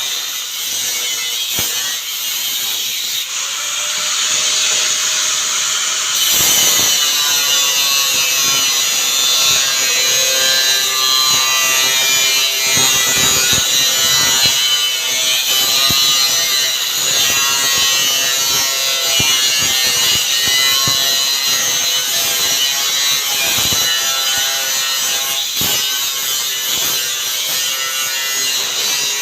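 Handheld electric power tool cutting continuously, a loud hissing cut with a whine that wavers in pitch as the load changes. It is cutting stock for a truck's rear door.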